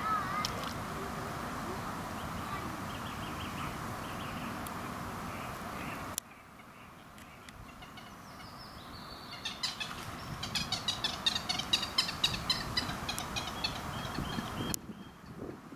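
Small birds singing outdoors, with a dense run of rapid high chirps in the second half as the loudest part. The background noise drops abruptly about six seconds in and shifts again near the end, at edits in the footage.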